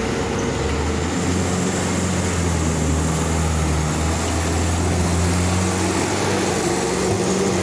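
Diesel truck engine running at steady revs, a constant drone with no change in pitch.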